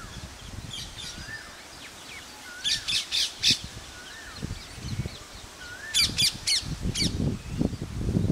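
Wild birds calling at a marsh: a short whistled note that rises and falls, repeated about four times at uneven gaps, and two bursts of harsh, rapid calls, about 3 s in and again about 6 s in. A low rumble runs under the later part.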